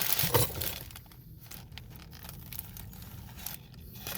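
A burrito's paper wrapper being crinkled and torn open as it is unwrapped. The crackling is loudest in the first second and then goes on more faintly.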